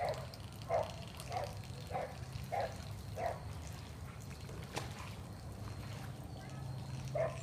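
Dog barking over and over, about one bark every 0.6 s, stopping about three seconds in. A single sharp click comes near the five-second mark over a low steady hum.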